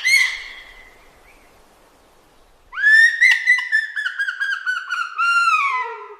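A bird calling: one short whistled note at the start, then about three seconds in a loud, rich series of quick connected notes that slides slowly downward in pitch, with a brief break near the end.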